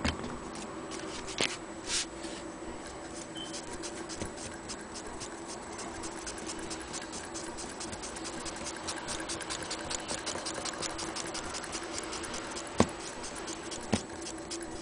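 Antique Willcox & Gibbs sewing machine running, its mechanism making fast, even clicking (several clicks a second) over a steady low hum, with a few louder single knocks.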